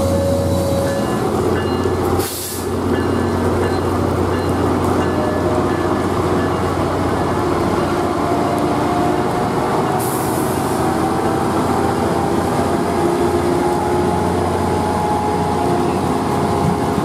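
Tri-Rail diesel commuter train moving through the station: a steady low engine hum with a whine that slowly rises in pitch from about halfway through as the train gathers speed.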